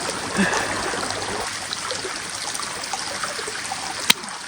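Creek water flowing steadily, with a single sharp click about four seconds in.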